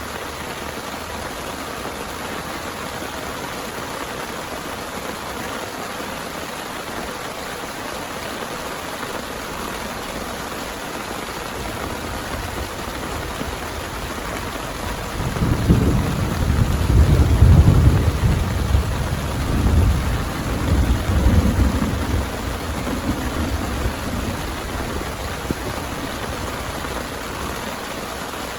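Heavy rain falling steadily, with a long roll of thunder about halfway through that rumbles in waves for several seconds before fading.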